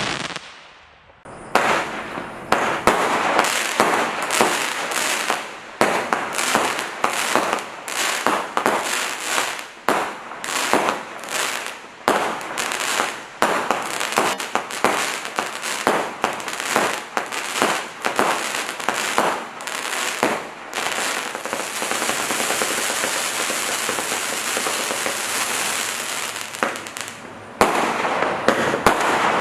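Display firework cakes firing a quick run of sharp shots and bursts, about two to three a second, then about two-thirds through turning into a dense continuous crackle that changes abruptly near the end.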